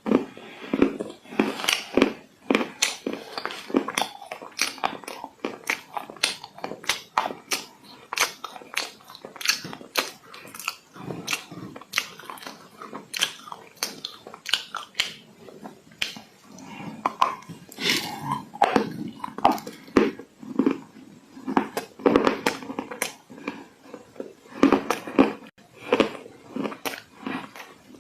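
Dry clay crunching and crumbling in close-up, a dense irregular run of sharp cracks, several a second.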